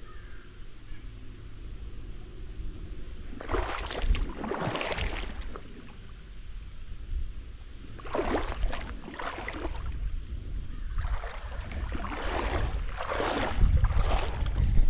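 Wader's steps through shallow river water, splashing and sloshing in uneven bursts, over a low rumble that grows near the end.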